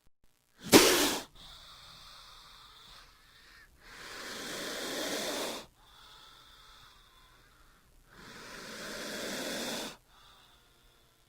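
King cobra hissing: a short, sharp, loud hiss about a second in, then two long hisses a few seconds apart, each building over about two seconds and cutting off abruptly.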